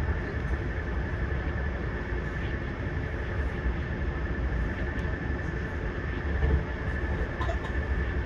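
Train running: a steady low rumble with a constant high-pitched whine over it, swelling briefly about six and a half seconds in.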